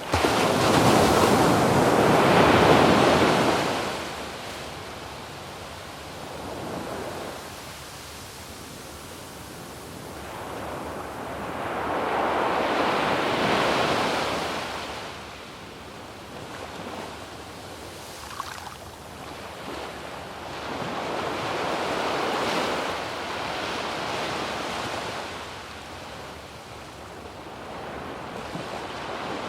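Waves breaking on a sandy beach and washing up the shore, in several swells: the loudest crash comes at the start, and further surges follow about 12, 21 and 28 seconds in. There is some wind on the microphone.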